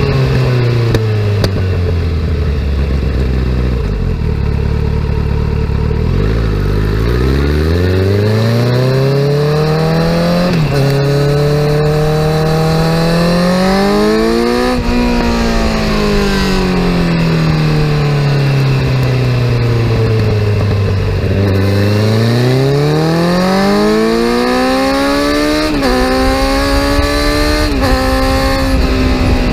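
2017 Kawasaki Z900 inline-four engine running through a full aftermarket exhaust while being ridden. The revs fall away over the first few seconds, then climb with a gear change about ten seconds in. They drop slowly through the middle, then climb again with two more gear changes near the end.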